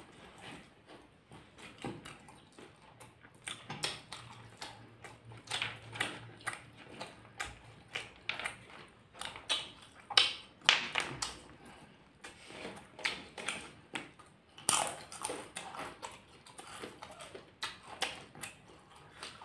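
Close-miked eating: two people chewing and lip-smacking mouthfuls of rice and side dishes in an irregular stream of wet clicks, with louder bursts about ten and fifteen seconds in.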